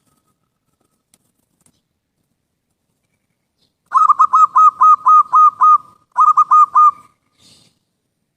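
Zebra dove (perkutut) cooing. About four seconds in comes a quick run of about eight short, hooked notes, then after a brief pause four more.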